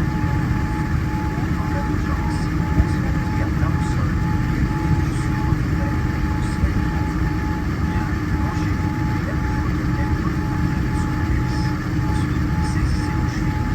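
Steady rush and hum of a Boeing 787-9 airliner cabin in flight, a constant low roar with a few steady tones running through it and a couple of faint ticks.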